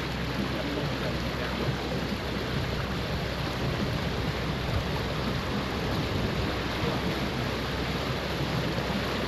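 Steady, even rushing noise of wind, rain and water aboard a sailboat under way.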